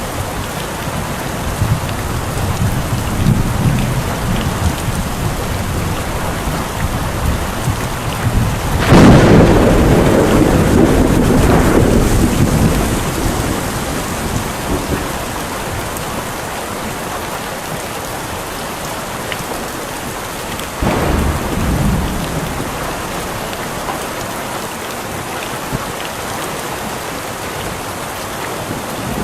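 Steady rain with thunder: a loud clap about nine seconds in that rumbles away over several seconds, and a lesser roll of thunder about twenty-one seconds in.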